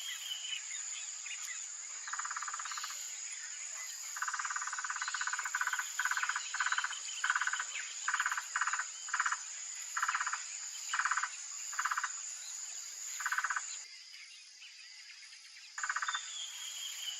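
A dozen or so short pulsed trills, fast rattling calls each lasting up to about a second and a half, repeated with irregular gaps. Behind them runs a steady high-pitched insect drone that stops near the middle and starts again near the end.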